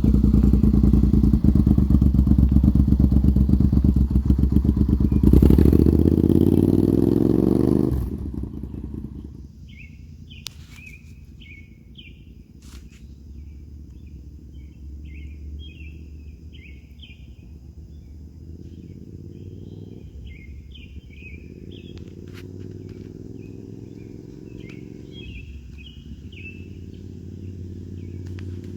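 Suzuki SV650S 90-degree V-twin engine running loud, its revs climbing from about five seconds in, then about eight seconds in it drops sharply and runs on much quieter and steady. Birds chirp over the quieter part.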